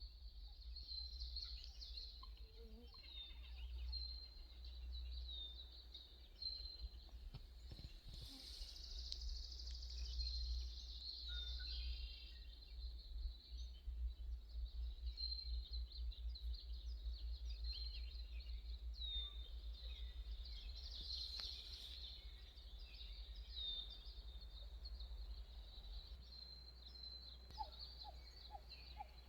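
Small birds chirping, short high notes repeated again and again, over a faint steady low rumble.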